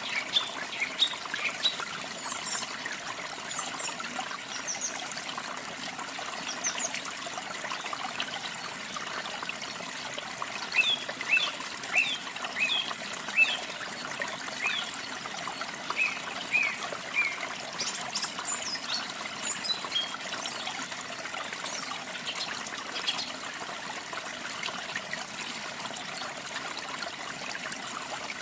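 Steady trickle of running water with small songbirds chirping over it in short, quick high notes. The chirps come in bunches about ten seconds in and again near twenty seconds.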